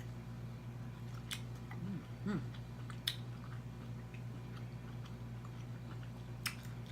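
Close-miked chewing and mouth sounds of someone eating crab legs, with a few sharp clicks, over a steady low hum.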